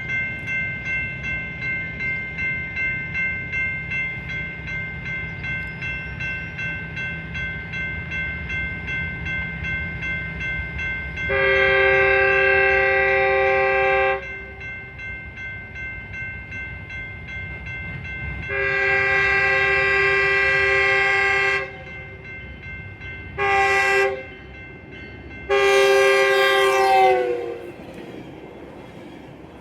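Locomotive air horn sounding the grade crossing signal: two long blasts, a short one, then a final long blast whose pitch drops as the train passes. Before it, a crossing warning bell rings about twice a second over the low rumble of the approaching train.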